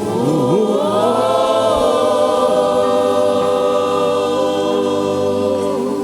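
Church choir singing a held, wordless chord over steady keyboard backing, the voices rising together in the first second and then sustaining long notes.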